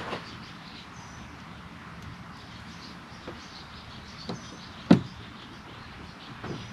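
A few light clicks and knocks from handling small parts, with one sharp knock about five seconds in, over a steady background hiss. Faint high chirps, like birds, are heard now and then.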